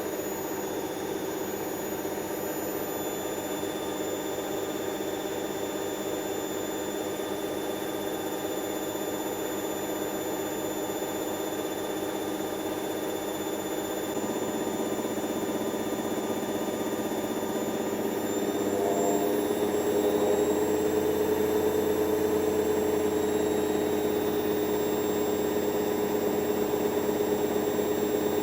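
Hoover DYN7144XD1 washing machine running in a spin, its motor and drum giving a steady whining hum. About 19 seconds in the pitch shifts and it gets louder as the drum speeds up.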